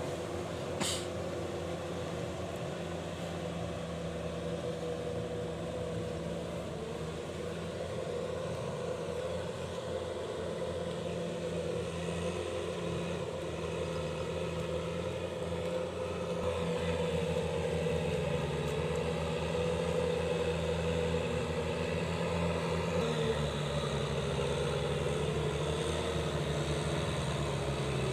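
Kubota M6040SU tractor's diesel engine running steadily, getting somewhat louder from about halfway through, with a sharp click about a second in.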